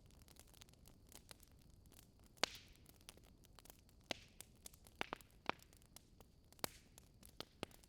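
Wood fire crackling: irregular sharp pops and snaps over a faint hiss, the loudest about two and a half seconds in, a few trailing off in a brief hiss.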